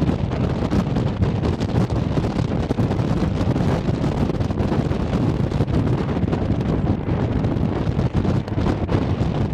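Wind buffeting the microphone: a steady, rough low rumble with constant flutter and no clear engine or tone.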